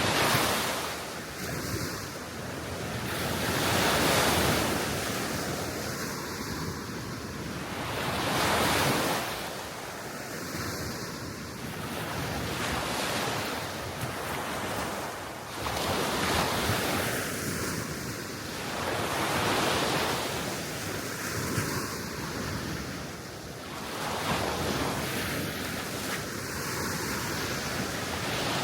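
Gentle sea waves breaking and washing up the shore, swelling and fading every few seconds, with wind blowing over the microphone.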